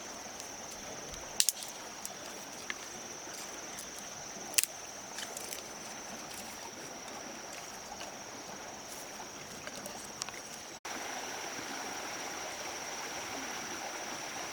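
Outdoor forest ambience: a steady high-pitched insect drone over a soft, even hiss like running water, with a few sharp clicks, the loudest two about a second and a half and four and a half seconds in. About eleven seconds in, the sound cuts abruptly and the ambience resumes a little louder.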